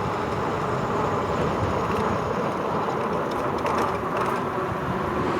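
Steady rolling noise of a RadRover 5 fat-tyre e-bike moving along a trail, tyre hum mixed with wind, with a few faint ticks partway through.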